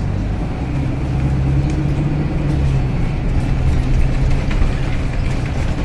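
Scania K250UB city bus's five-cylinder diesel engine running steadily, a low even hum heard from on board the bus.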